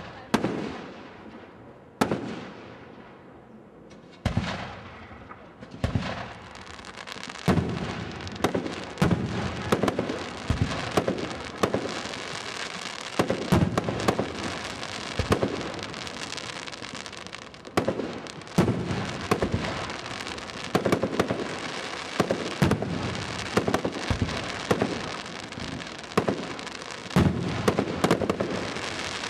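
Fireworks display: a few separate shell bursts, each followed by fading crackle, then from about seven seconds in a dense barrage of bangs over continuous crackling.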